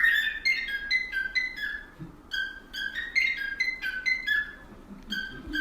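High whistle-like notes in quick, tune-like phrases of several short notes a second, with a brief break about two seconds in.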